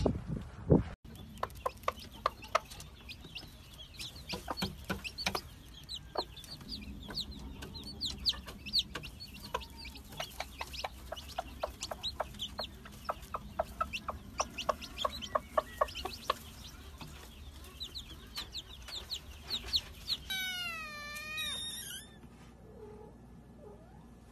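Domestic chicks cheeping, many short high peeps a second. About twenty seconds in, a kitten gives one meow that wavers in pitch.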